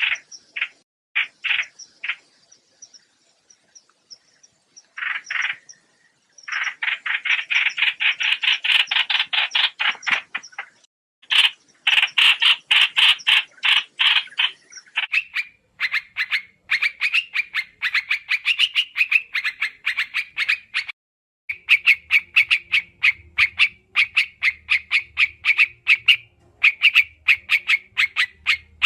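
Trao trảo bird calling in fast chattering series of short notes: a few short bursts, then long, dense runs from about six seconds in. This is a trapping lure recording of the species.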